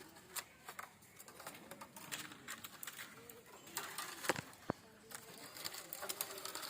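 Scattered light clicks and taps of bamboo strips being handled and worked, with two sharper knocks a little past the middle, while a pigeon coos softly in the background.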